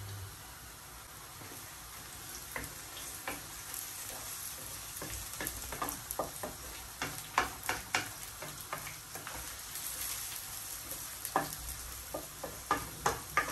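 Garlic-ginger paste and browned onions sizzling in hot oil while being stirred, with a steady faint hiss and many sharp clicks and scrapes of the spoon against the pot, busiest around the middle and again near the end.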